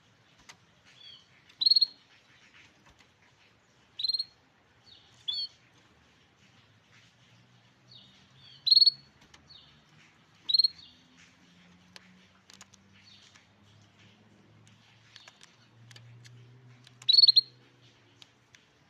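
Canary giving short, high single chirps every second or few seconds, about six loud ones with fainter chirps between.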